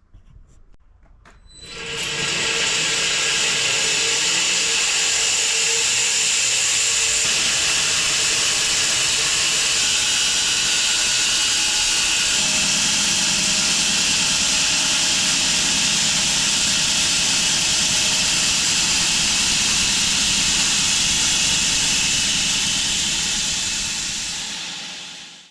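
A sawmill running a cut through a London plane log. The motor and blade start up about a second and a half in, then run with a steady, loud, hissing saw noise before dying away near the end.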